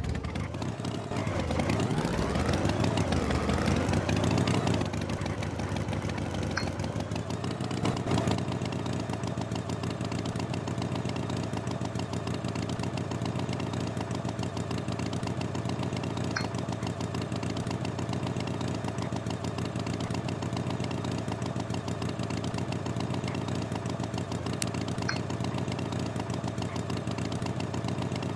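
An engine revving up and down for a few seconds, then running at a steady idle.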